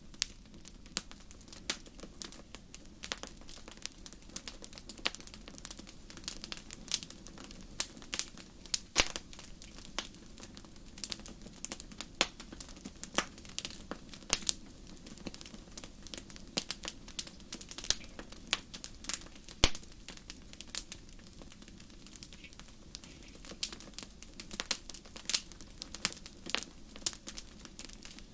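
Wood campfire crackling: frequent, irregular sharp pops and snaps over a steady low rush.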